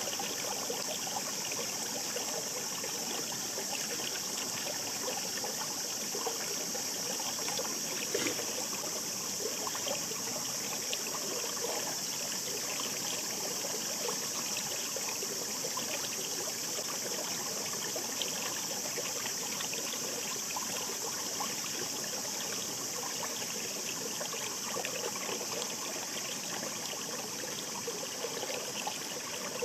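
Shallow mountain stream babbling over stones, a steady rush of water with many small splashes and gurgles.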